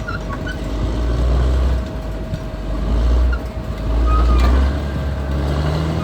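Caterpillar D6R XL bulldozer's diesel engine working under load, its deep rumble swelling and easing three times.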